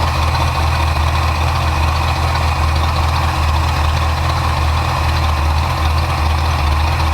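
1977 Ford Ranchero's 351 Windsor V8 idling steadily with a rebuilt carburetor while its idle mixture is being adjusted. The idle has a faint pulsing to it and is thought to be running too rich.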